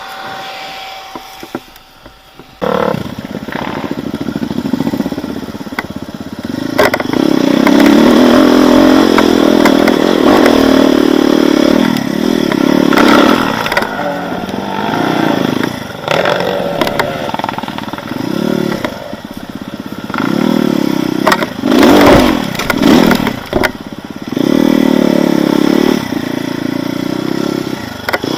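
Off-road motorcycle engine under hard, uneven throttle, revving up and dropping back again and again. It comes in loud about two and a half seconds in.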